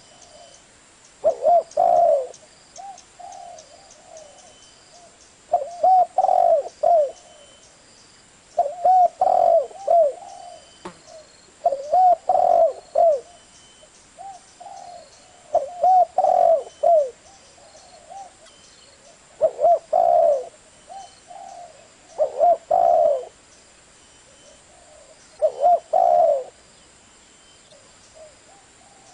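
Spotted dove cooing: a phrase of several soft coos repeated about every three to four seconds, eight times.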